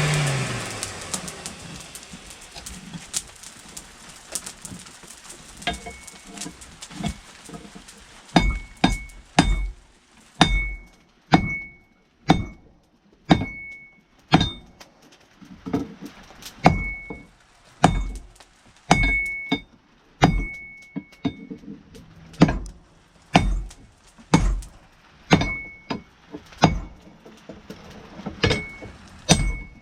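Hand hammer striking hot steel on an anvil, flattening the wrench end into an axe head: irregular blows, about one to two a second, many with a short bright ring from the anvil. A machine hum winds down in the first second.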